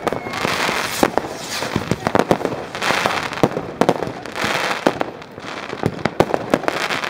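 Fireworks and firecrackers going off: many sharp bangs and pops, some close and some farther away, mixed with about four hissing rushes, each under a second long.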